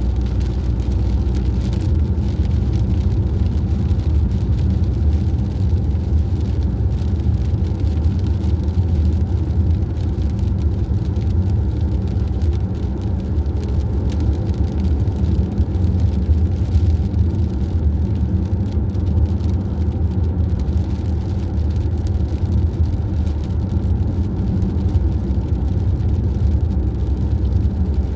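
Steady engine and road rumble of a vehicle cruising at a constant speed, with no change in pitch or level.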